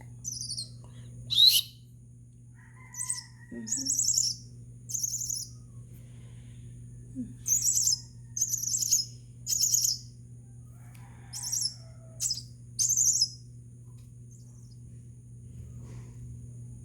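Two-week-old crested myna ("martinez") chick giving short, high begging calls in loose groups, about fifteen in all, falling quiet near the end. A steady low hum sounds underneath.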